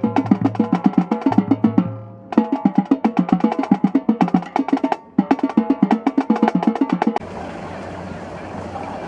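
Percussion music of fast, rapid pitched strikes, like a drum or wood-block rhythm, broken by two short pauses. It stops abruptly about seven seconds in, leaving a steady background hiss.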